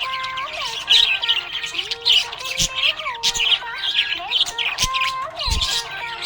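Budgies chirping and twittering rapidly and continuously over background music, with a couple of brief low thumps.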